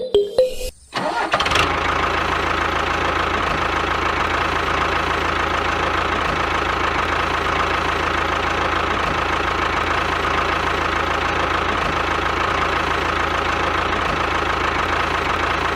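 Small engine of a homemade mini tractor starting up about a second and a half in, then running at a steady speed.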